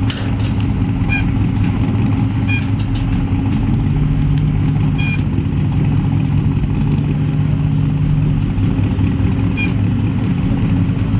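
A vehicle engine running steadily at idle, with a few short, sharp high-pitched chirps.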